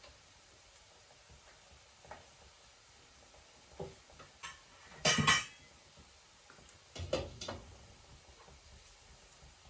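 Dishes and kitchen utensils knocking and clattering: a few light knocks, a louder clatter about five seconds in, then two more clinks around seven seconds.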